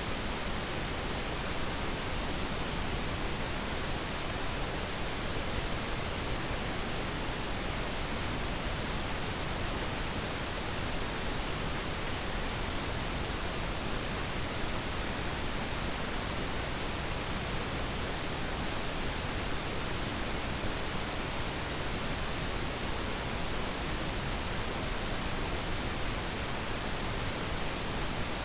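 Steady, unchanging pink noise, an even hiss across the whole range with no other sound.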